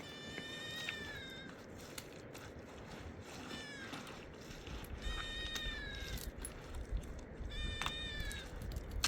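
An animal giving four high, drawn-out calls, each dropping in pitch at its end, over a low rumble that grows louder about halfway through.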